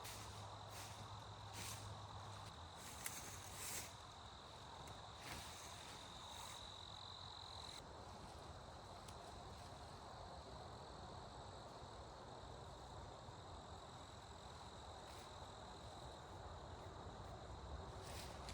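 Faint forest ambience: an insect trilling steadily on one high note, with a few soft clicks or crunches in the first few seconds.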